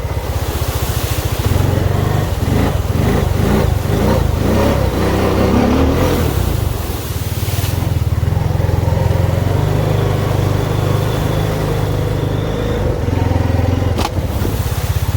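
Honda ATV engine running while being ridden, with wind and terrain noise. The engine speed rises and falls in the middle, and there is a single sharp knock near the end.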